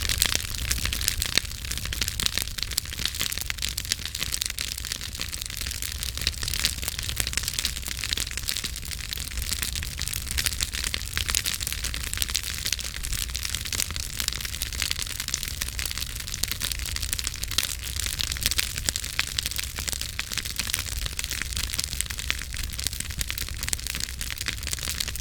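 Campfire burning, wood crackling and popping in many quick small snaps over a low rumble of the flames.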